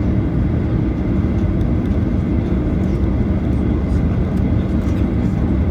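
Steady low rumble inside the cabin of a Boeing 737-900ER as it taxis, its CFM56-7B26 engines running at taxi power.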